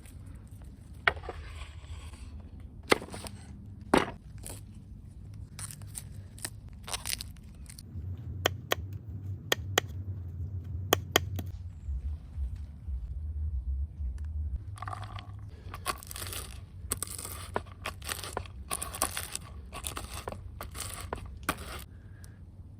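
Food being prepared by hand: scattered sharp knocks and taps, then, from about fifteen seconds in, a run of rough scraping strokes at roughly two a second.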